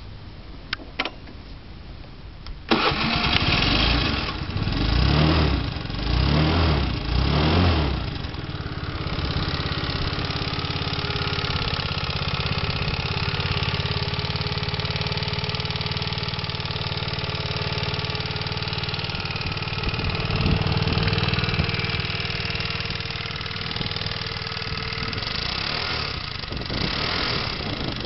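Honda Today engine started after a few clicks, catching about three seconds in and revved a few times, then settling into a steady idle. It runs with a rattling "karakara" noise, an abnormal engine noise.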